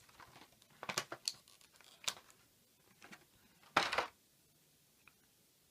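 Handling of a small plastic action figure and its accessory parts: a few short plastic clicks and rustles, then a louder rustling burst just under four seconds in.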